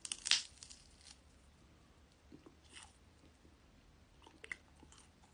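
A bite crunching into the crisp rice-wafer shell of a honey monaka, loudest at the very start, followed by a few softer, scattered chewing crunches.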